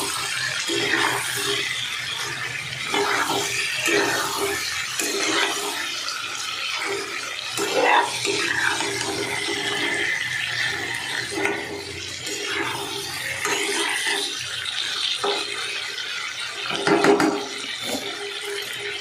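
Chicken pieces frying in oil and onion masala in a nonstick kadai, sizzling steadily while a metal spatula scrapes and turns them at irregular moments, the loudest near the end. This is the bhuna stage, frying the chicken until the oil separates from the masala. A steady low hum runs underneath.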